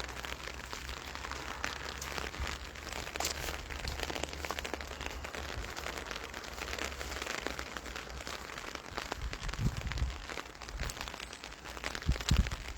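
Rain pattering close to the microphone: a steady, dense, light crackle, with two short low bumps near the end.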